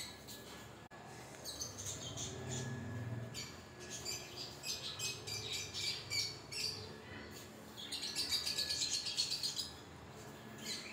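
Small birds chirping in quick short calls, building to a rapid run of chirps about eight seconds in.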